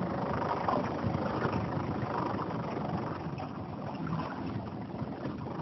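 Steady rumble of a small motorboat running on the water, with water noise.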